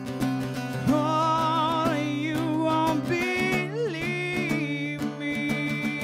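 Live acoustic guitar strummed in a steady rhythm, with a wordless melody line over it that wavers with vibrato and slides in pitch partway through.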